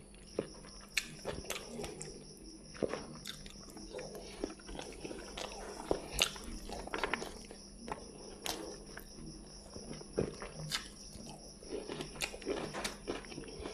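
Close-up eating sounds of a person eating rice and fish curry by hand: chewing and lip smacks, with irregular soft clicks as fingers mix rice on a plate.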